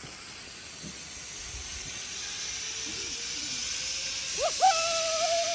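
Zip-line trolley running along the steel cable with wind rushing over the microphone, the hiss building steadily louder as speed picks up. A held, sustained shout cuts in about four and a half seconds in.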